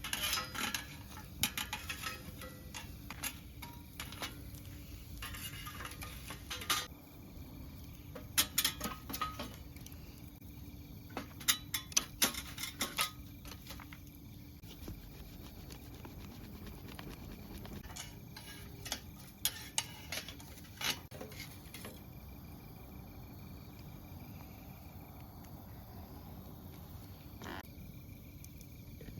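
Light metal clinks and knocks of small camp gear being handled, in irregular clusters through the first half and again about two-thirds of the way in. Crickets chirp steadily in the background.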